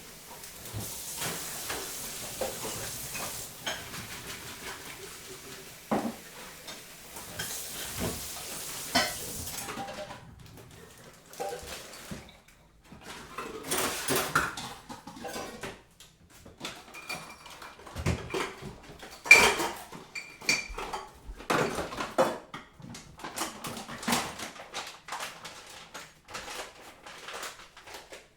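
Crockery and cutlery clinking and knocking: irregular clinks of china and metal being handled and set down, one with a short bright ring about two-thirds of the way through. A steady hiss runs under the first third.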